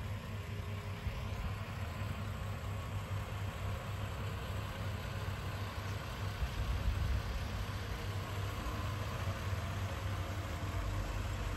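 Toyota Land Cruiser FZJ80's straight-six engine idling steadily, a low even hum.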